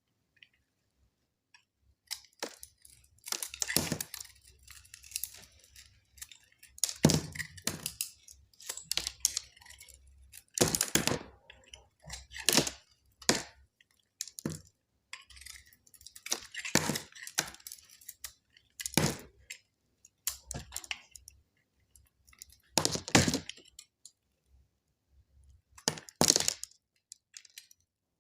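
Knife cutting through dry bar soap: a series of sharp, crunchy cracks at irregular intervals, one every second or two, with short quiet gaps between cuts.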